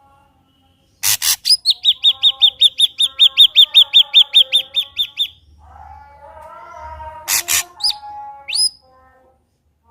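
Ashy drongo singing: two sharp, harsh notes, then a fast even run of about twenty high whistled notes, about five a second. This is followed by softer low warbling, and near the end by more sharp notes and a few rising whistles.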